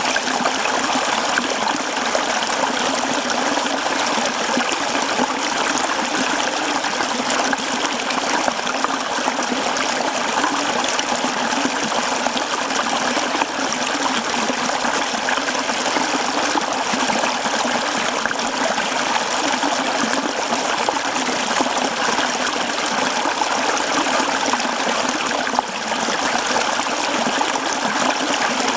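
Mountain stream flowing over rocks: a steady babble and splash of running water.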